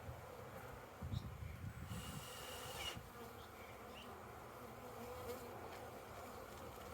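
Honey bees buzzing steadily as they fly about their hive, with one bee's higher buzz passing close about two seconds in.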